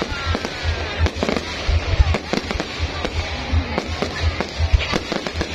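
Fireworks bursting in a dense, irregular barrage of bangs and booms, several a second.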